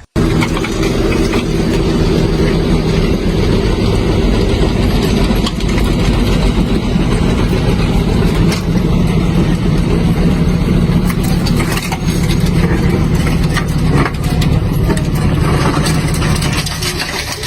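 Motor vehicle engine running steadily, with a dense hiss of noise over it.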